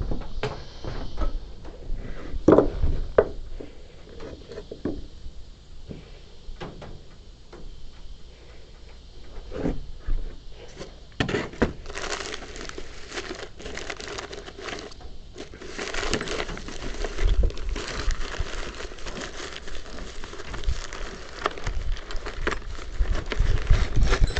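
Irregular knocks and clunks of timber being handled, then from about halfway a denser run of crackling, rustling noise with small knocks.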